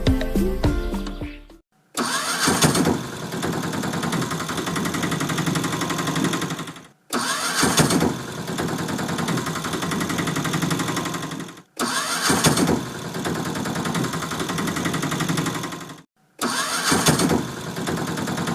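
An engine starting with a rising whine, then running steadily for a few seconds and cutting off, the same start-up sound played four times in a row with short silent gaps. Music is heard in the first second and a half.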